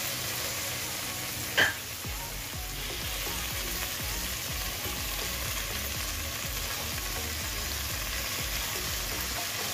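Food sizzling steadily in pans on a gas stove, with one sharp metallic clink about one and a half seconds in.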